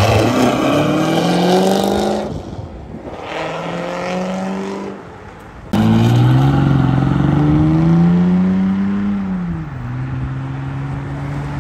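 Chevrolet Corvette V8 accelerating hard, revs rising, easing off about two seconds in, then climbing again. Then, suddenly, a Ford Mustang accelerating hard, its engine note climbing for about four seconds, dropping at an upshift and settling into a steady drone.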